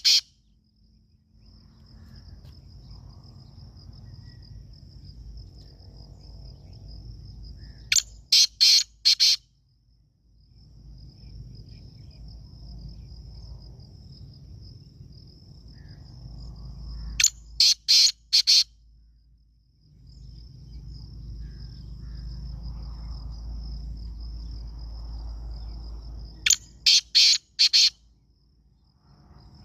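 Black francolin calling three times, about nine seconds apart, each call a rhythmic series of about five harsh, loud notes lasting a second and a half. Between calls a cricket or other insect keeps up a steady high trill.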